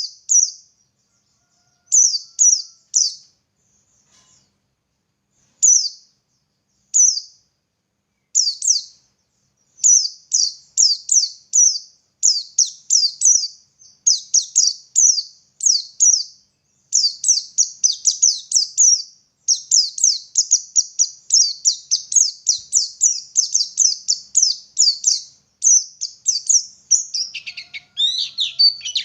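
White-eye (pleci) singing: high, quick, downward-sliding notes, first in short separate clusters, then running together into a fast continuous twittering stream from a little past halfway. Near the end one phrase drops lower in pitch.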